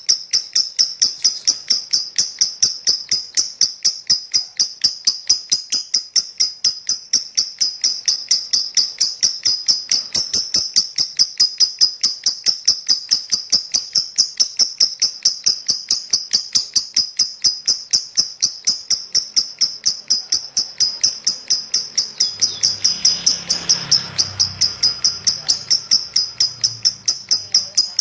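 Lovebird in a long, unbroken 'ngekek' chatter: sharp high chirps repeated several times a second at an even rhythm. A faint low rumble comes in briefly near the end.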